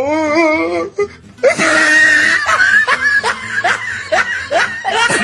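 Laughter mixed with music, likely an added comedic sound effect, with a wavering pitched voice at the start and a dense stretch of laughing from about a second and a half in.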